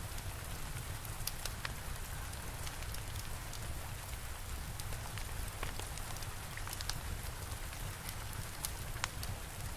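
Steady rain with a low rumble underneath, and a crackling fire giving scattered sharp pops at irregular intervals.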